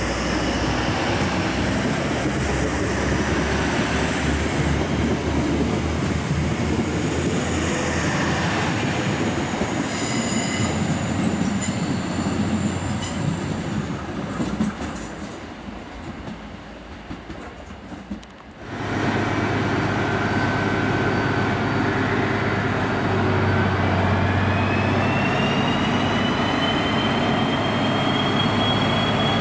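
Electric multiple-unit trains rumbling on the rails, dying down toward the middle. Then a DB class 218 diesel-hydraulic locomotive approaches with its engine droning steadily, and a high whine rises and then holds in the last third.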